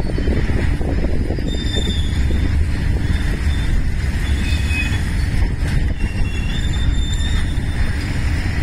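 Container freight wagons rolling past: a steady low rumble of wheels on rail, with short high-pitched squeals from the wheels coming and going.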